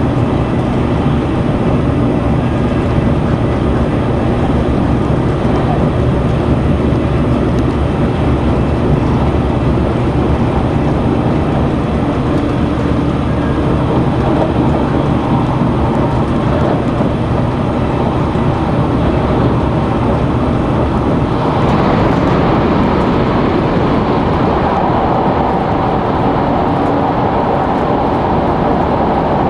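Running noise inside the passenger car of a Sonic limited express, a tilting electric train, travelling at speed: a steady rumble of wheels on rail. About twenty seconds in, the sound turns harsher, with more hiss in the upper middle range.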